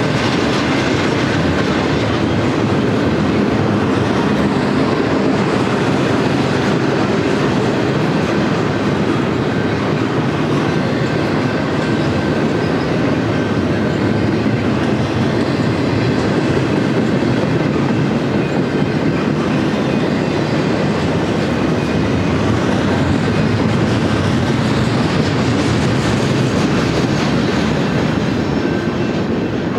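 BNSF freight train cars rolling past on steel wheels: a loud, steady rumble and rattle, easing slightly near the end.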